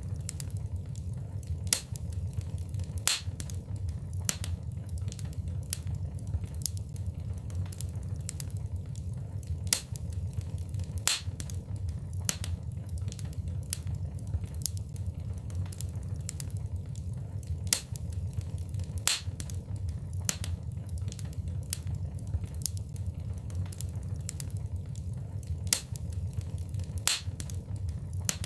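Wood fire burning in a fireplace: a steady low rumble of flames with sharp crackles and pops, one or two a second, a few of them louder snaps. The same stretch of crackling repeats about every eight seconds, as a looped recording does.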